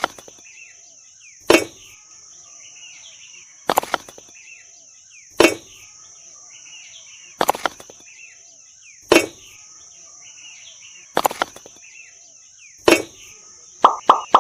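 A sharp thud or swish repeats about every two seconds, over a steady high hiss and faint bird chirps. A fast run of short pulses starts just at the end.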